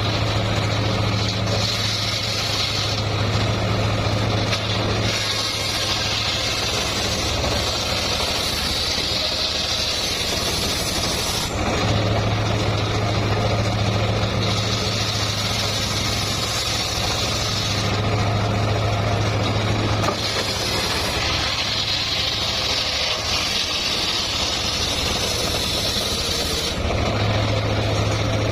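Homemade sawmill circular saw running steadily with a low hum, alternating every few seconds with stretches of a louder hissing rasp as the blade cuts through a log.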